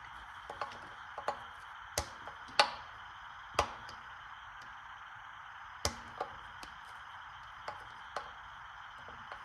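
Hand tools clicking and clinking against metal parts of a small V-twin engine as they are worked loose. It is a dozen or so irregular sharp clicks, the loudest about two and a half seconds in.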